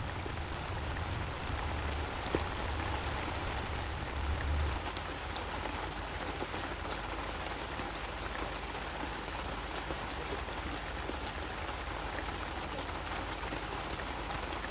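Steady rain falling, an even wash of drops, with a low rumble underneath for the first five seconds or so that then stops.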